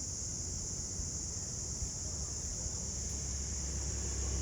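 Insects droning steadily in a continuous high-pitched chorus, over a low, even rumble.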